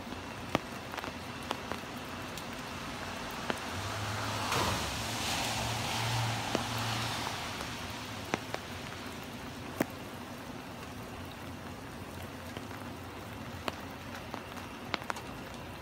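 Steady rain with scattered sharp drip clicks. A car passes on the wet street about four seconds in, its tyre hiss and low engine hum swelling and fading away over a few seconds.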